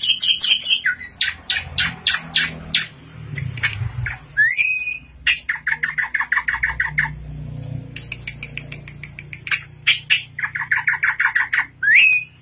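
Drongo singing: rapid runs of sharp clicking notes, two fast rattling trills, and a couple of quick rising whistles.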